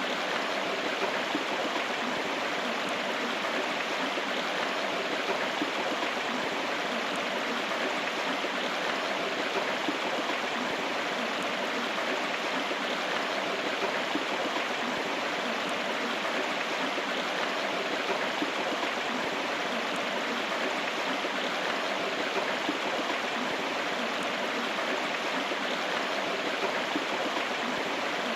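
River water flowing steadily, a continuous even rush of a stream.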